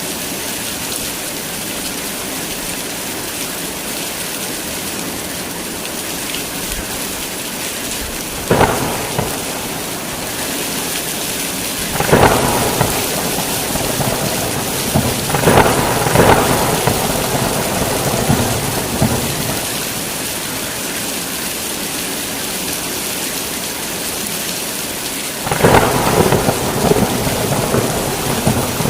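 Heavy rain falling steadily, with thunder breaking through several times: a short crack, then a longer peal, then two close cracks, and a long rumbling peal near the end.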